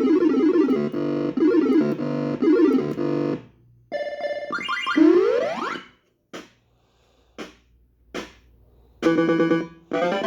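MPU4 club fruit machine playing its electronic sound effects and music: a fast bleepy tune that stops about three and a half seconds in, a rising sweep around five seconds, three short blips, then another quick jingle near the end.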